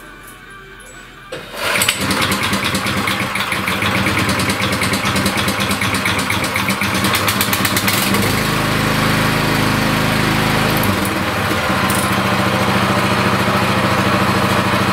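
The Brada BD 850 cultivator's engine starts about a second and a half in and runs steadily, its note changing for a few seconds midway before settling back. It runs evenly with no knock or other odd noise now that the clutch has been repaired.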